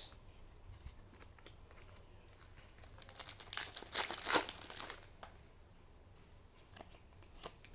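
A trading-card booster pack wrapper crinkling and being torn open. There is a dense burst of crackly tearing about three seconds in that lasts a couple of seconds, with light rustles and clicks before and after.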